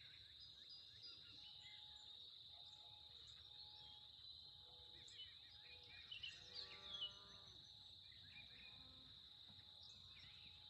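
Faint outdoor ambience: a steady high-pitched insect drone, with scattered bird calls and one brief louder call about six to seven seconds in.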